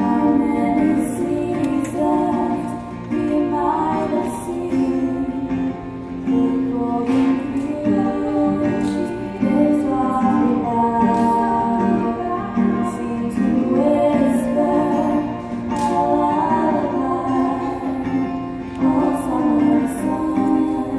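Concert choir singing a song.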